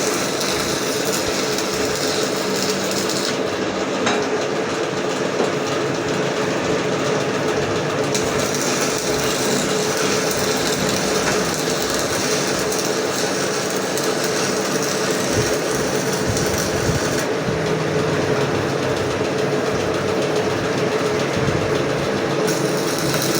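Electric arc welding: a steady hissing noise over a constant hum, with the high part of the hiss dropping out twice for a few seconds.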